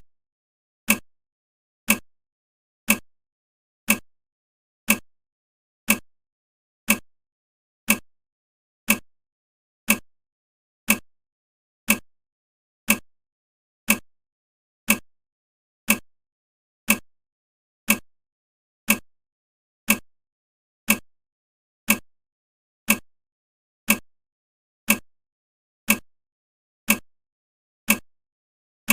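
Countdown timer's clock-tick sound effect: one sharp tick every second, each dying away quickly.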